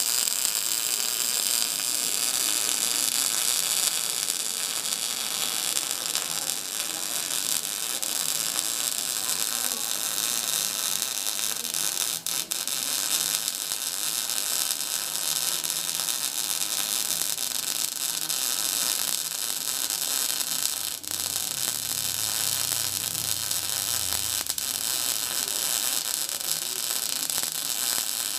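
Electric arc welding: a continuous arc crackling and hissing with a low hum, briefly dipping twice.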